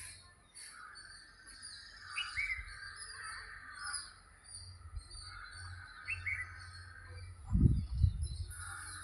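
Songbirds chirping outdoors: short calls repeated every few seconds over a steady background of bird and insect chatter. A couple of low thumps near the end are the loudest sound.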